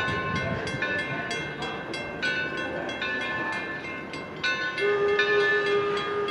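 Steam locomotive bell ringing steadily, about three strokes a second, each stroke ringing on. About five seconds in, a steady whistle tone joins it and holds for about two seconds.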